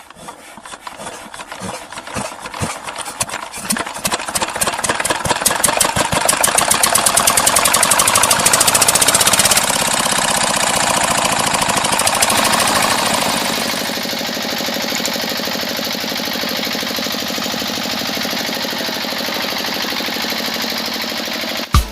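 An engine starting up and running with a fast, even knocking beat that gets louder over the first several seconds, then drops back to a steady, somewhat quieter run for the second half.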